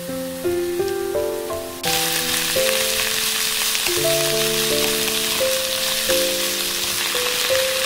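Sliced onion and green onion sizzling as they fry in oil in a wok. The sizzle is faint at first and jumps much louder about two seconds in, then stays steady while they are stir-fried.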